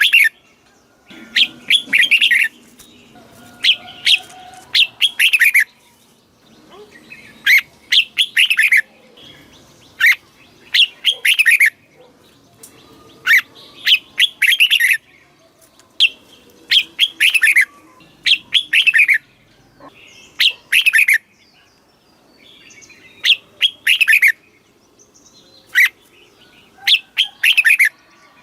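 Red-whiskered bulbul singing: loud, short phrases of a few quick sweeping whistled notes, repeated every second or two, in the style that keepers use to train young birds and to excite caged males.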